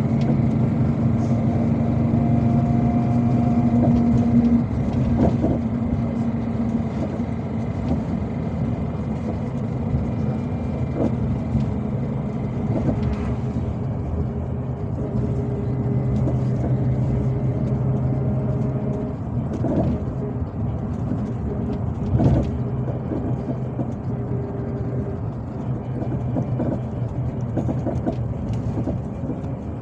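Ride inside a MAZ-257 bus on the move: diesel engine and road noise running steadily, the engine note shifting a few times, with one sharp knock about three-quarters of the way through.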